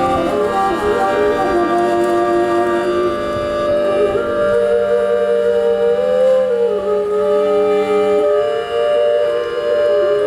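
Live folk band music: a kaval flute carries a wavering melody over long held chords.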